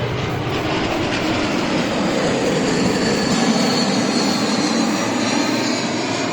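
Airplane flying low overhead: a loud engine roar with a faint high whine, swelling to a peak around the middle and easing off as it passes.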